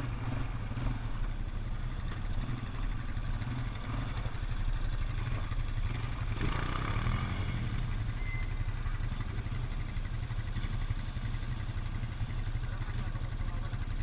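ATV engine running while the quad is ridden over bumpy ground, a steady heavy low rumble, with a brief louder clatter about six seconds in.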